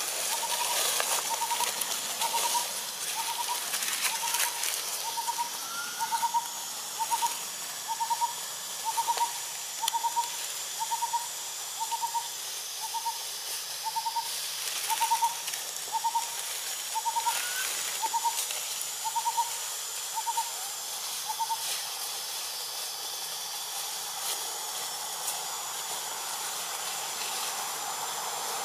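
A bird repeating a single short, hooting note at an even pace, about three notes every two seconds. The calls stop about two-thirds of the way through.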